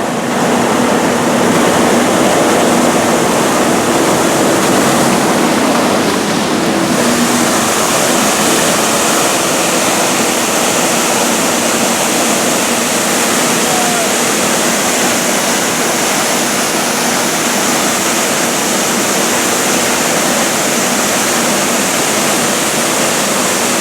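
Water gushing steadily under pressure from a sheared fire hydrant, a loud unbroken rush. A faint steady hum runs under it for the first seven seconds or so.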